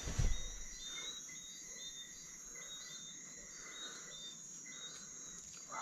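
Night insects chirring: a steady high trill with short high chirps repeating two to three times a second. A low thump right at the start.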